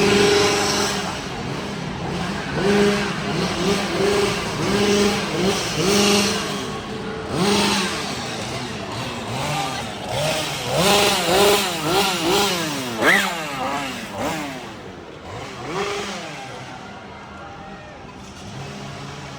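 Chainsaw engines revving again and again, the pitch jumping up and dropping back with each blip. Several saws overlap most thickly in the middle before the sound fades near the end.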